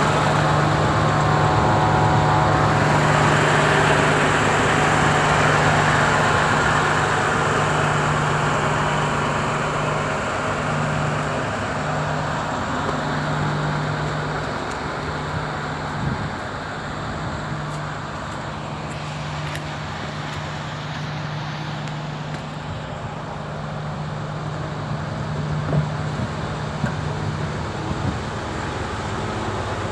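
Diesel engine of a MAN TGS 35.360 truck running steadily, with a constant low hum and a rushing noise that is loudest for the first several seconds and then eases off. There are a couple of brief knocks later on.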